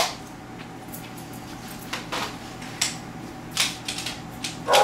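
A handful of scattered clicks and light knocks, typical of tools and parts being handled, over a low steady background, with a louder short burst near the end.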